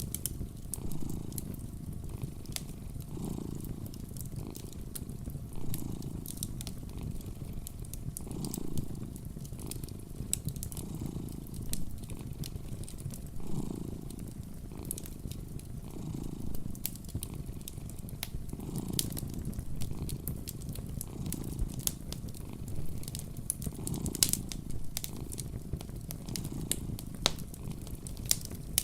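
A cat purring close by, the purr swelling and fading about every two and a half seconds with its breaths, over the scattered pops and crackles of a fireplace fire.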